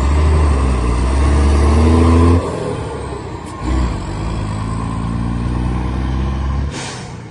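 Mercedes 1820 truck's diesel engine running and revving. The engine note climbs, drops off sharply, picks up again and drops once more near the end, followed by a short hiss of air.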